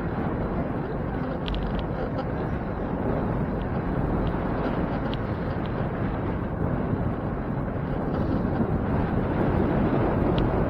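Steady wind rush and road noise from a moving bicycle ride, with a few faint short ticks now and then.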